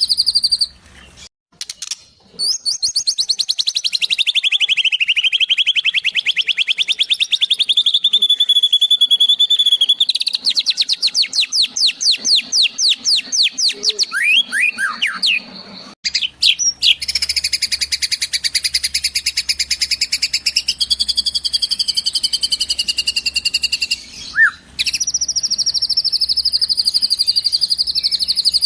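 White-rumped shama (murai batu) singing loud, fast trills and long runs of rapidly repeated chirps, its phrases switching abruptly, with notes mimicking Eurasian tree sparrow and kingfisher calls.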